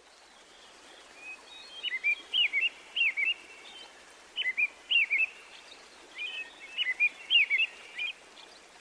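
A small songbird singing three short bursts of quick chirping notes that slide up and down, over a steady hiss.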